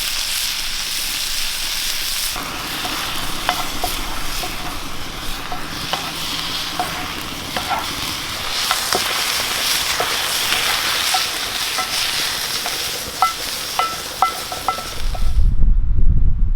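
Food sizzling in a pan while a metal utensil stirs it, with scattered clinks and short ringing taps of metal on the pan. Near the end the sizzling gives way to loud wind rumble on the microphone.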